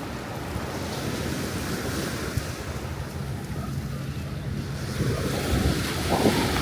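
Ocean surf washing on the shore, with wind buffeting the microphone; it grows a little louder about five seconds in.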